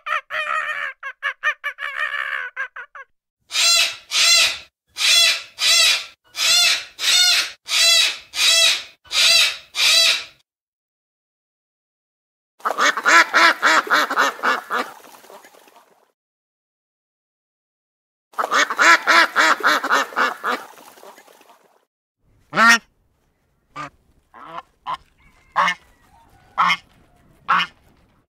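Bird calls in separate bouts. A fast run of short calls comes first, then about eight evenly spaced calls roughly a second apart, then two longer, harsher calls of about three seconds each, and a scatter of short sharp calls near the end.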